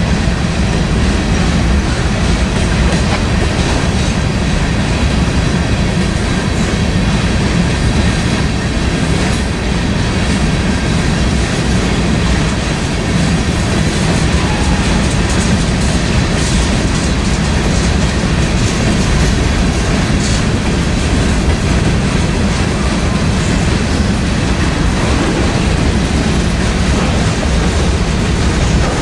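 Freight train of covered hopper cars rolling steadily past close by: a loud, continuous rumble of steel wheels on the rails.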